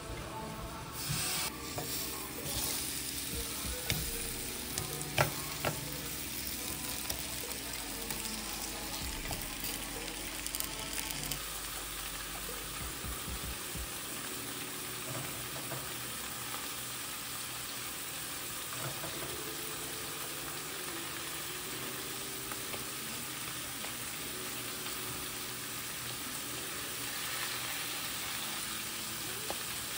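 Meat and chopped potatoes, bell peppers and garlic frying in butter in two pans: a steady sizzle, with a few knocks of a stirring utensil in the first dozen seconds or so.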